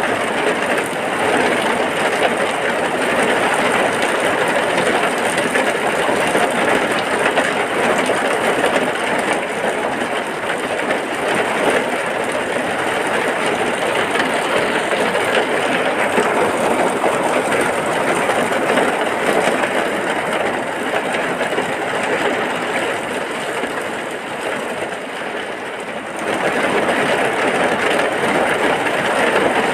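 Heavy rain falling steadily as an even, dense hiss. It eases a little a few seconds before the end, then picks back up.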